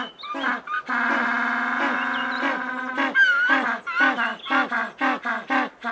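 Penguins calling: one long, held harmonic call about a second in, then a quick run of short calls falling in pitch, about four a second, with a few thin high chirps over them.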